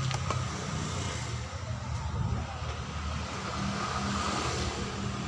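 A motor vehicle engine running steadily with a low hum, and a few light sharp clicks near the start.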